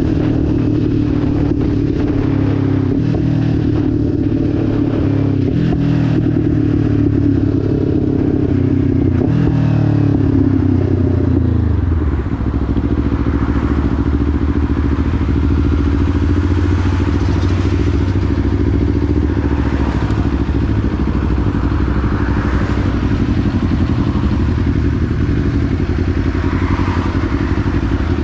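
Kawasaki Ninja 500's parallel-twin engine running. Its pitch rises and falls under throttle for about the first twelve seconds, then it settles to a steady, lower, even note.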